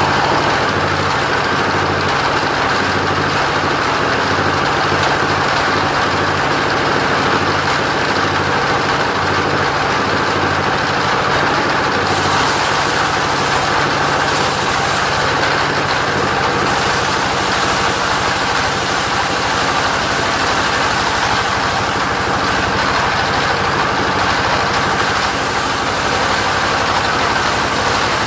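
Engine of a portable sawmill running steadily at an even, low speed, with no cutting load heard.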